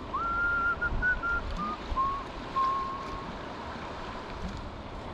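A person whistling a short phrase of held notes that step down in pitch, over the steady rush of spillway water.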